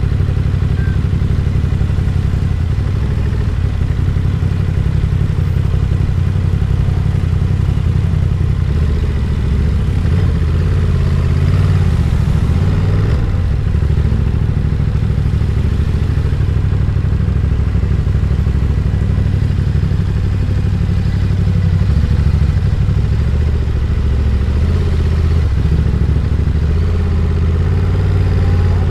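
Ducati Monster 937's 90-degree V-twin engine running at a steady pace, its low pitch holding fairly even with only small rises and dips.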